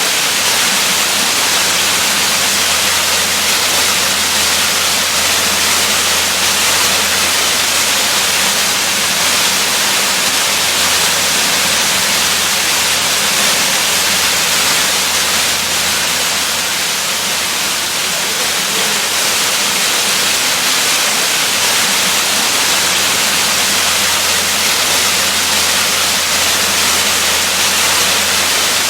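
Waterfall, water falling in a steady, even hiss.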